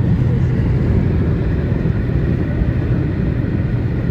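Car on the move: a steady low engine and road rumble.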